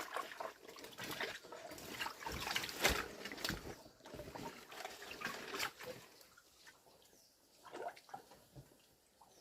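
Faint splashing and trickling of shallow pond water, with small irregular splashes and drips, dying away after about six seconds to near quiet.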